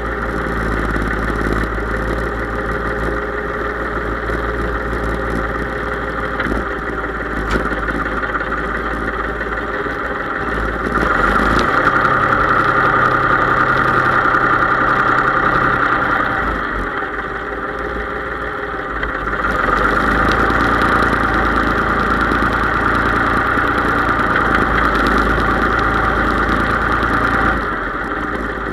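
Case IH 3220 tractor's diesel engine running steadily, growing louder for several seconds twice: first about eleven seconds in, then again from about twenty seconds in until near the end.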